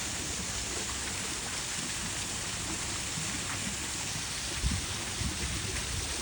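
Water from a pool's waterfall cascading steadily onto the pool surface, a constant splashing hiss. A brief low thump about four and a half seconds in.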